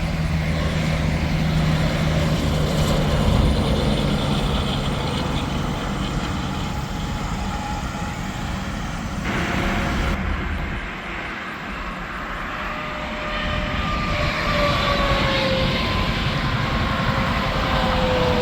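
Interstate highway traffic passing at speed: tyre roar and engine drone. In the last few seconds a whine falls slowly in pitch as a vehicle goes by.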